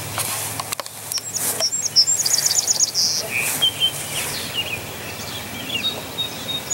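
Small birds chirping: a quick run of high notes about two seconds in, then scattered short chirps and a brief whistle, over a steady low background hum.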